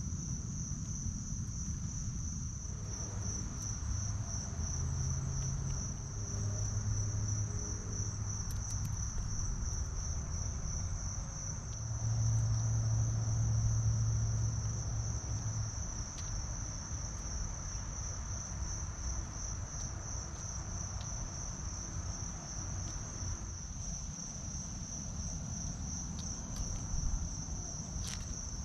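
Crickets chirping in a steady, high, evenly pulsing chorus, over a low rumble that swells for a few seconds in the middle.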